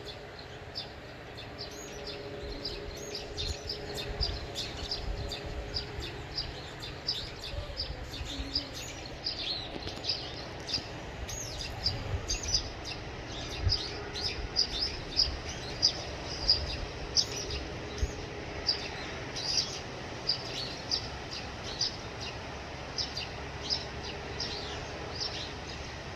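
Small birds chirping over a barley field: many short, high chirps repeated again and again, louder and more regular from about halfway through.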